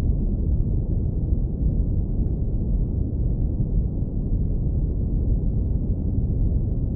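Steady, warm, deep-rumble brown noise, filtered down to the lowest bass so it has no hiss on top. An even, unchanging rumble with no events in it.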